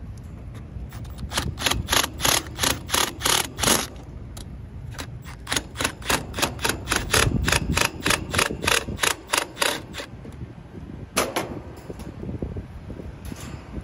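Hammer striking metal in quick repeated blows, about three a second, in two runs, then one last blow.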